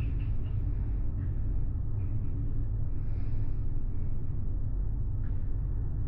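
Steady low rumble of a large car ferry's engines and hull, heard from inside a passenger cabin while under way, with a few faint ticks.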